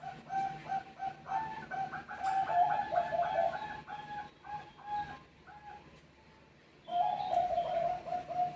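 Bangkok perkutut (zebra doves) singing back and forth: a rapid run of short, clear coos lasting about five seconds, with two voices overlapping in places. After a brief lull, a second run of coos starts about seven seconds in.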